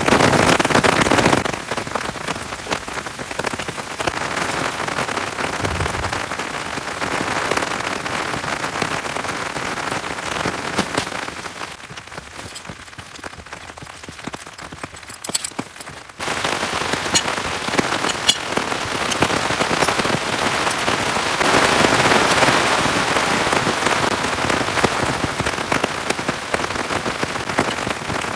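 Heavy rain falling steadily, a dense hiss of drops. It turns quieter for a few seconds around the middle, with a few sharp ticks, then comes back at full strength.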